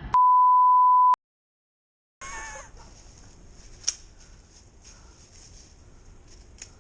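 A censor bleep: a steady, pure, high beep lasting about a second, followed by about a second of dead silence where the audio is muted. Outdoor background with a steady high hiss then returns, with a brief wavering sound and a couple of faint clicks.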